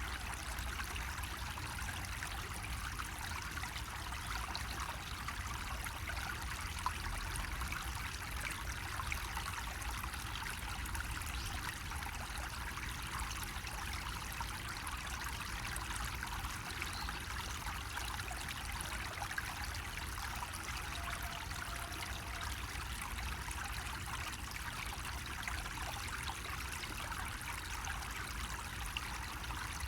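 Water running from a bamboo spout in a steady, unbroken trickling stream.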